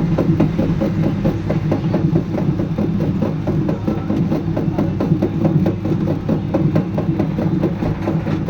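Small electric poultry defeathering machine with a 0.25 HP motor running steadily, with a quick, regular knocking.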